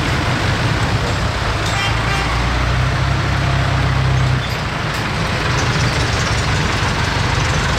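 Tractor engines running as tractors drive past, a low engine note over road and wind noise; the engine note swells, then drops away about four and a half seconds in.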